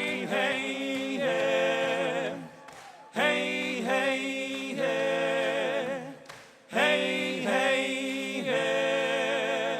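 A group of voices singing a cappella, the same short phrase sung three times with pitch slides between notes.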